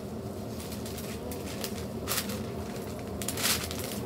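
Hotteok frying in oil on a flat griddle, a faint steady sizzle with light clicks. Near the end comes the rustle of a takeaway bag being handled to pack the pancakes.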